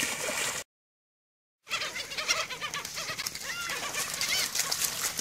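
Many birds chirping and calling at once, short overlapping calls, with a second of dead silence just after the start.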